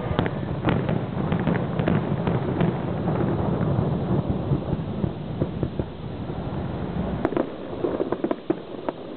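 Aerial fireworks bursting, heard as many sharp pops and cracks scattered through, with a denser cluster near the end. Under them runs a steady low rumble.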